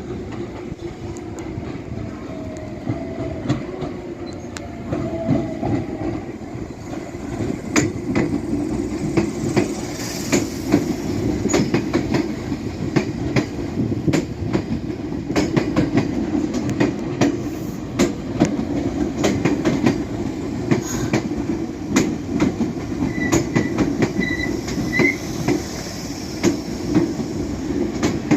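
Meitetsu electric train moving through the station, its wheels clicking over rail joints above a steady rumble. There are brief high wheel squeals near the end.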